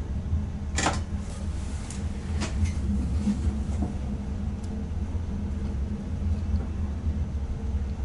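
Low, steady running rumble in the driver's cab of a Dutch ICM electric train on the move. A few sharp clicks and knocks come over it, the loudest about a second in and weaker ones over the next few seconds.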